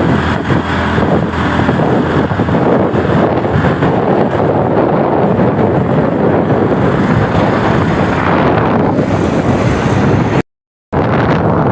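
Wind buffeting the microphone of a moving motorcycle over the steady drone of the engine and road. The sound cuts out completely for about half a second near the end.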